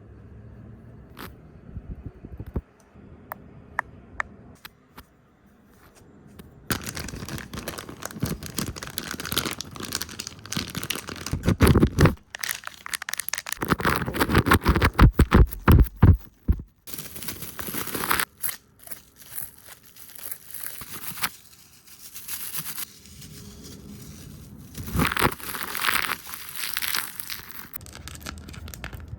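Close-miked ASMR hand and brush sounds: a few scattered taps at first, then fast, aggressive rustling, brushing and scraping against the microphone, with loud bursts of crackly friction noise.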